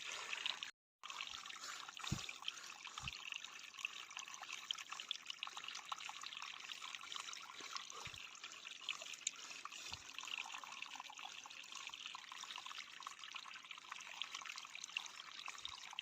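Faint steady trickle of shallow running water, like a small stream, with a few soft low thumps. The sound cuts out completely for a moment just under a second in.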